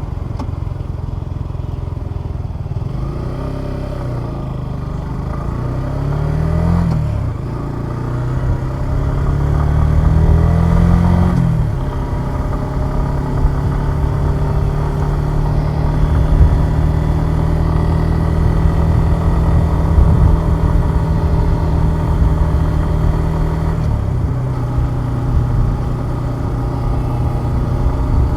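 Suzuki Gixxer 150SF's single-cylinder engine pulling up through the gears: the pitch rises and drops at a gear change twice, then holds a steady cruise, easing down once near the end.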